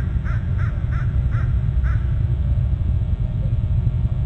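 A bird giving six short, harsh, caw-like calls in quick succession over about two seconds, over a steady low rumble.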